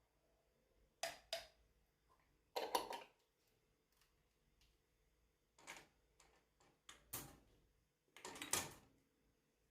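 Light clicks and knocks of objects being handled, about half a dozen scattered irregularly over several seconds, against a very quiet background.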